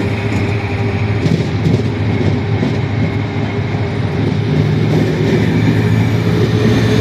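Railway test-train coaches rolling past at speed: wheels clicking over rail joints, with the wheel-and-rail rumble carrying a steady low hum.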